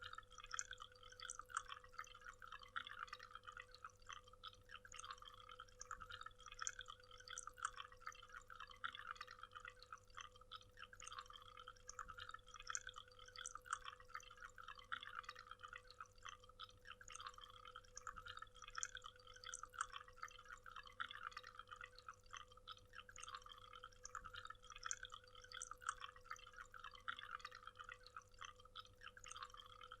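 Waterfall: water splashing and trickling steadily without a break, faint, with a faint steady hum underneath.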